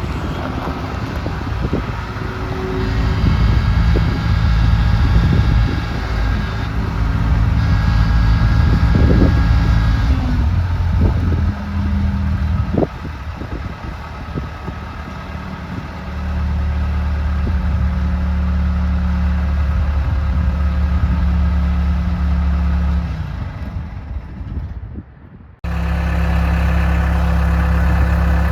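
Case 445 skid steer's diesel engine running, rising and easing with throttle and load for the first ten seconds or so, then running steadily. Near the end it fades and breaks off abruptly, and then runs steadily again.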